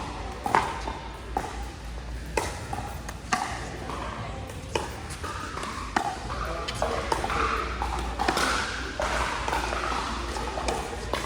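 Pickleball paddles striking a plastic pickleball: a run of sharp pops, spaced unevenly, over background chatter.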